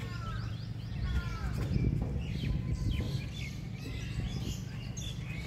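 Birds chirping and calling: many short, overlapping calls over a low, steady rumble.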